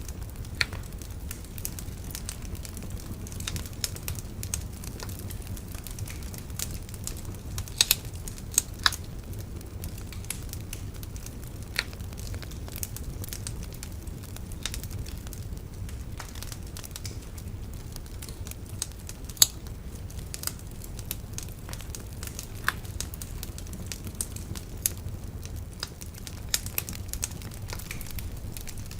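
Wood bonfire burning, crackling with irregular sharp pops, a few louder snaps among them, over a steady low rumble.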